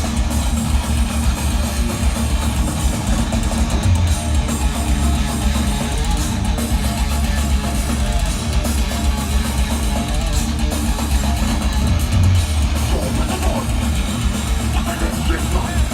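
A rock band playing live and loud: distorted electric guitars over drums, with a heavy low end and a steady level throughout.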